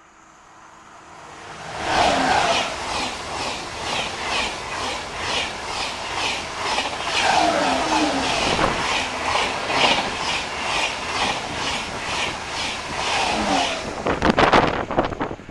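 TGV high-speed train passing close by at speed: a rushing sound that builds over about two seconds, with an even clatter of wheels on the track at nearly three beats a second. It stops sharply as the last car passes, and gusts of wake wind then buffet the microphone.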